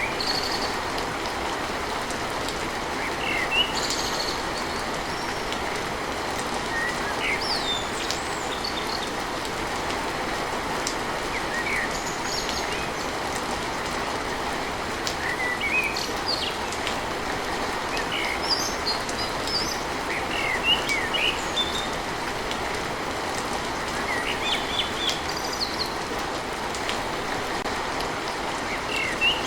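Steady rain falling on a tin roof, with birds giving short chirps every few seconds.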